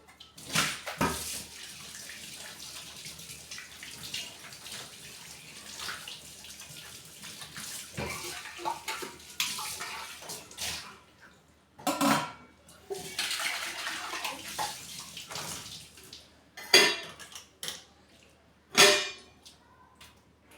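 Water running from a tap in two long spells, with a few short, loud clatters of dishes in between and near the end.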